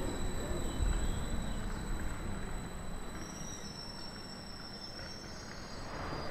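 Double-deck Intercity 2 electric train running away along the track, its low rumbling running noise fading steadily as it recedes.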